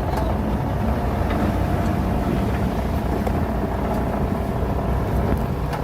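Diesel engine of heavy earthmoving machinery running steadily under load, a continuous low rumble.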